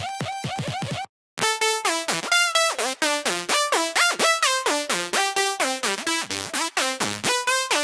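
Xfer Serum software-synth sequence presets playing rapid patterns of short, bright synth notes, many of them sliding down in pitch into each note. The sound cuts out briefly about a second in, as one preset ends and the next begins.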